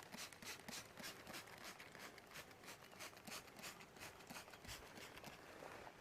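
Faint, quick, irregular scratchy clicks, several a second.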